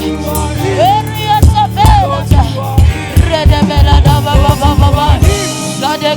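Live gospel praise band playing an upbeat groove: a bending lead melody over bass guitar and a steady kick-drum beat.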